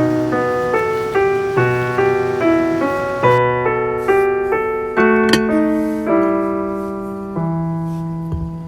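Background piano music: single notes and chords struck a few times a second and left to ring, with one short click about five seconds in.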